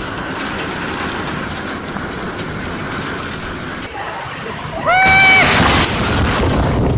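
Storm wind and rain as a steady rushing noise with a low rumble, growing suddenly louder about five seconds in, when a brief pitched tone sounds through it for about half a second.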